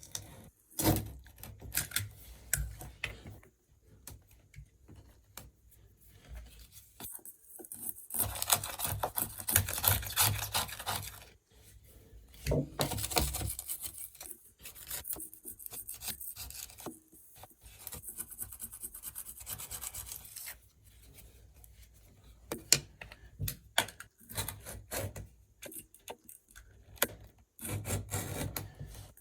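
A hand blade scraping stubborn old silicone sealant off a shower tray, in uneven spells of scratching a few seconds long with short pauses between.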